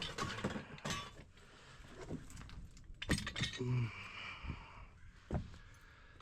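Metal tools and pipe fittings clinking and knocking together as they are rummaged through and handled, with a few sharper knocks spread through.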